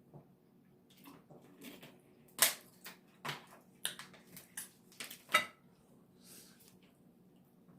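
A plate and utensils clinking and clattering as food is eaten: a string of sharp knocks over a few seconds, the loudest about two and a half seconds in.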